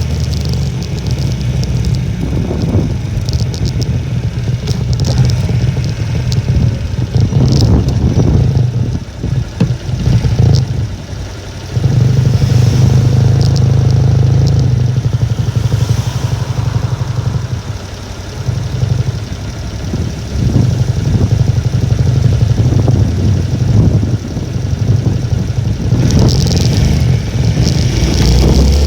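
A Honda Little Cub's small single-cylinder four-stroke engine runs under way, its note briefly dropping and picking up again about ten seconds in. Strong typhoon wind buffets the microphone over it.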